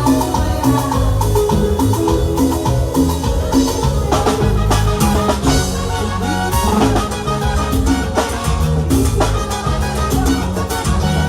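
Live cumbia band playing, with drums and percussion keeping a steady beat under bass and a melodic lead instrument.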